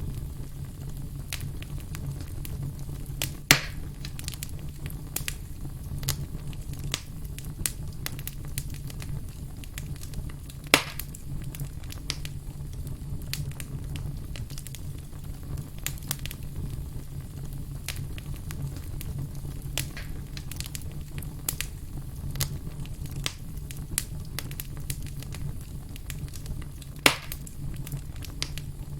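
Wood fire crackling, with frequent small snaps over a steady low rumble. Three much louder pops come a few seconds in, about eleven seconds in, and near the end.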